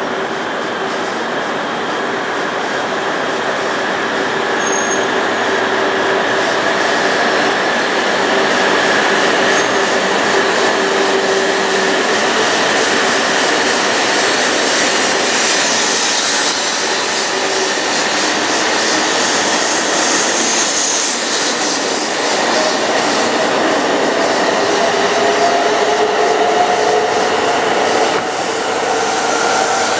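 E2 series Shinkansen pulling out of the platform, its traction-motor whine climbing in pitch as it accelerates, over a rush of wheel and rail noise that grows louder.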